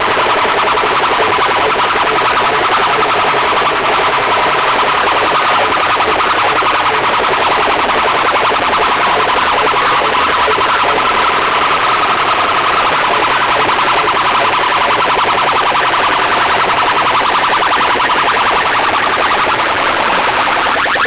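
A DJ competition sound system's horn loudspeakers blasting a harsh, siren-like electronic tone effect at full volume, pulsing rapidly without a break. Near the end, quick rising sweeps start to come in.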